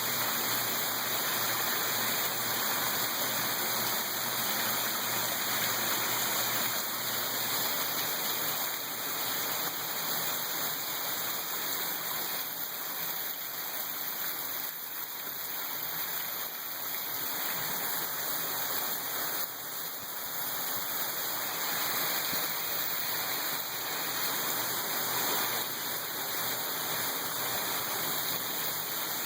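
Heavy rain pouring down in a steady, dense hiss of falling water.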